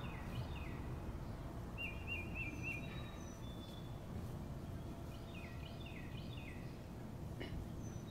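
Small birds chirping over a steady low background rumble: clusters of short downward-sliding chirps at the start and again about six seconds in, a quick trill about two seconds in, and a few thin high whistles.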